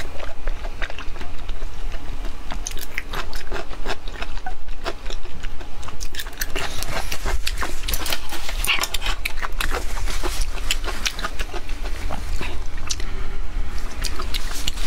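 Close-miked chewing of braised pork intestines: a dense, continuous run of wet mouth clicks and smacks.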